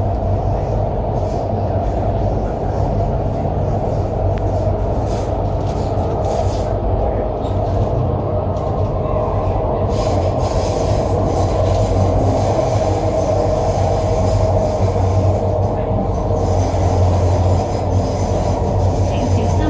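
MTR Island Line Q-Train running between stations, a steady rumble of wheels on rail with a constant low hum, growing slightly louder about halfway through.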